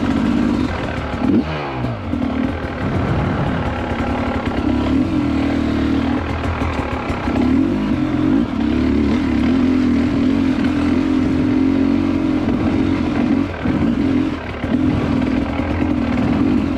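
Two-stroke dirt bike engine running under load on a slippery muddy trail, revs rising and falling as the throttle is worked. The revs drop sharply about a second and a half in and dip briefly twice near the end.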